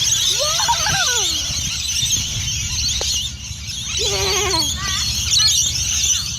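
A large flock of lorikeets screeching and chattering without a break. Two louder squealing cries come near the start and about four seconds in.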